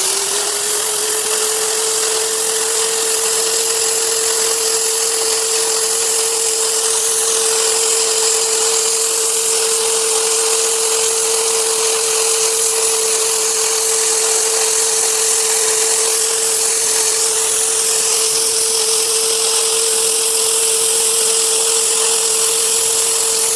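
Oxygen cutting torch cutting a bevel through thick S45C steel plate: a steady loud hiss of the cutting jet with a steady whistling tone, unbroken throughout.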